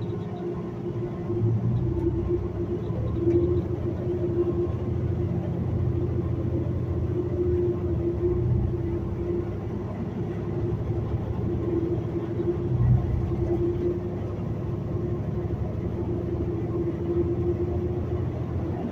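Metro city bus under way, heard from on board: the engine and drivetrain run with a steady hum over road rumble. The rumble swells about a second and a half in and again near thirteen seconds.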